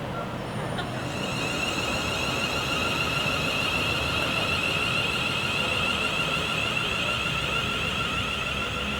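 A steady high-pitched whine from a train, several pitches sounding together and holding level, starting about a second in.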